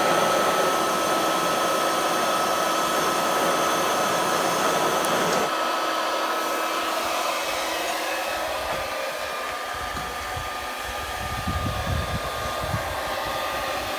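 Electric blower of a coal forge running steadily, a rushing air noise with a high motor whine, feeding air into the newly lit fire. Its lower hum drops away about halfway through, and an irregular low rumble comes in near the end.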